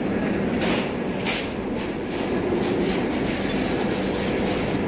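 Steady rumble of a train at a railway station platform, with a couple of short bursts of noise in the first second and a half.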